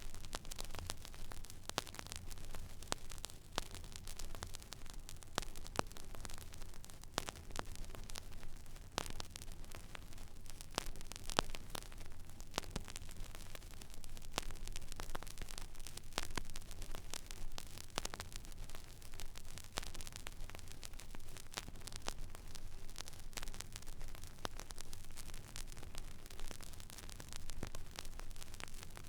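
Record player stylus riding an empty vinyl groove: steady surface hiss with frequent crackles and pops, over a low hum.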